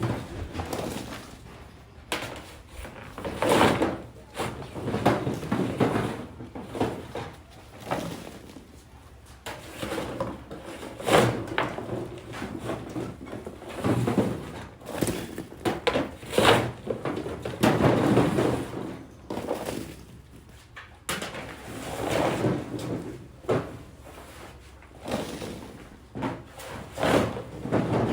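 Irregular knocks, thuds and clatter of objects being handled, in a small room.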